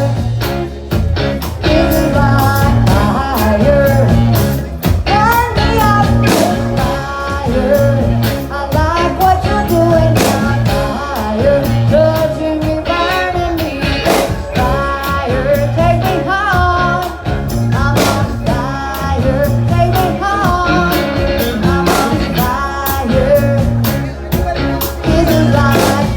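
Live rock-and-roll band playing with a singer, a steady drum beat and bass under the vocals.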